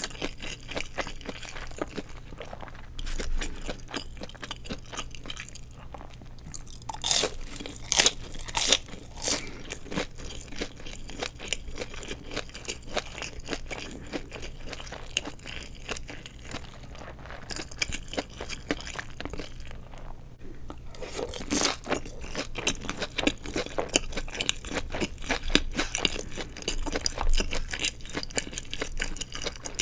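Close-miked crunching and chewing of deep-fried seaweed rolls filled with glass noodles: crisp bites with a steady patter of small crackles between them. The loudest crunches come about a quarter of the way in and again about two-thirds of the way through.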